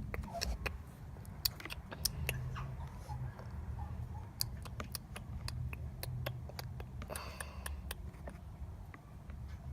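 Turbo-diesel V6 idling as a low steady hum, with many small sharp clicks over it.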